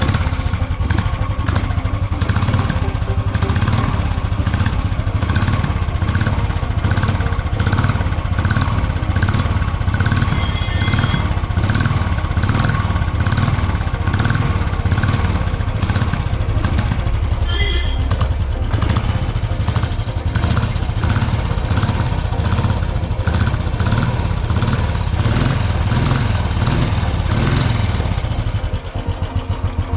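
Royal Enfield 350 single-cylinder engine running steadily through its stock exhaust silencer, a fast even exhaust beat, settling a little quieter near the end.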